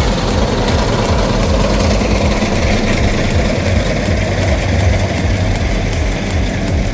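Heavy farm machinery engine running steadily with a low, uneven throb.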